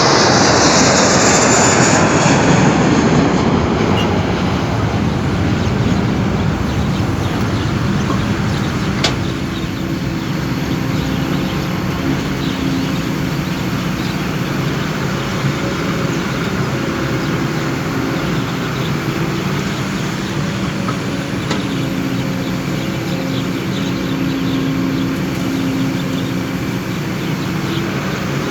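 Kobelco excavator's diesel engine running steadily at work, its tone shifting a little with load, with louder, rougher noise in the first few seconds and a single sharp knock about nine seconds in.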